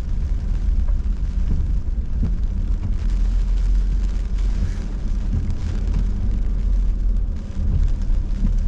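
Steady engine and road rumble heard from inside a car driving through hurricane rain, with the rain's hiss on the car over it.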